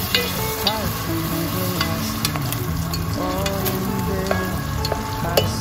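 Ground beef and diced onion sizzling in a pot as a wooden spatula stirs them, with scattered scrapes and knocks of the spatula against the pot. Background music plays over it.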